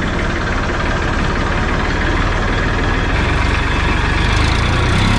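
Tractor engine running steadily, getting a little louder near the end.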